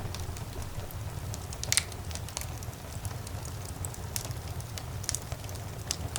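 Fireplace fire crackling, with irregular sharp snaps and pops over a steady low rumble. One louder pop comes a little under two seconds in.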